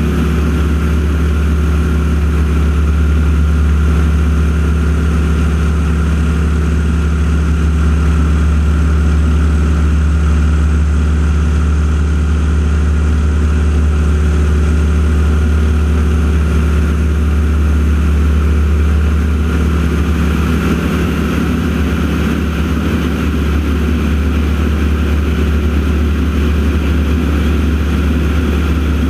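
Steady drone of the AeroShell team's North American T-6 Texans' Pratt & Whitney R-1340 radial engines running at power through the aerobatic routine.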